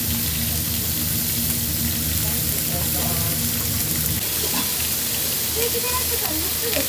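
Pork steaks sizzling in hot oil in a frying pan on a gas burner, a steady frying hiss, with sliced pork and onions also cooking in a second pan. A low steady hum runs underneath and eases about four seconds in.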